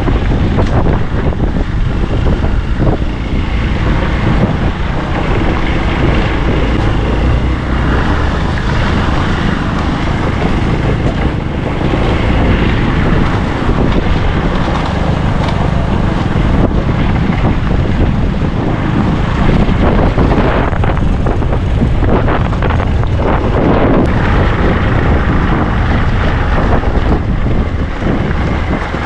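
Motorbike on the move, with wind buffeting the microphone over the engine and road noise.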